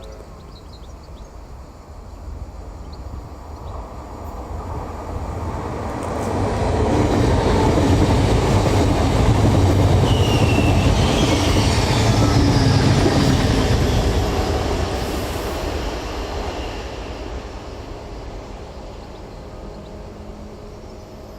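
A train passing by on the rails: the rumble builds, is loudest for about seven seconds in the middle, then fades away.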